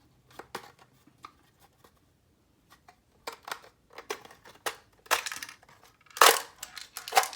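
Plastic clicks, knocks and scrapes of an airsoft high-capacity magazine being taken apart by hand as its bottom plate and internals come out. Sparse at first, busier later, with a few louder scraping rasps near the end.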